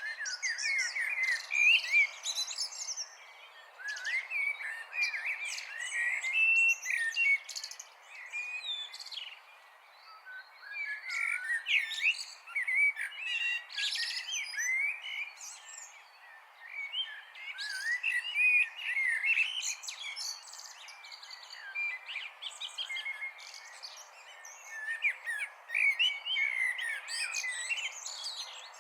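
Several small songbirds singing and chirping at once: a dense chorus of quick, warbling phrases with a few brief lulls.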